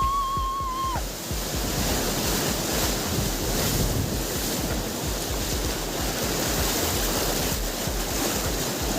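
Big ocean waves surging and crashing, with wind buffeting the microphone. A held high-pitched tone sounds over it and stops about a second in.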